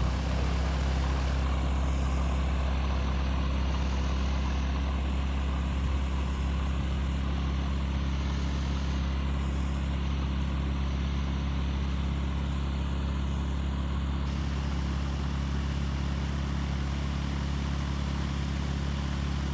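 Small single-engine airplane's piston engine starting up, catching at the very start and then running at a steady idle with its propeller turning.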